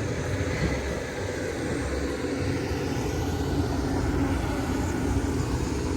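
Steady low rumble of vehicle engines and traffic, with a faint steady hum running through it.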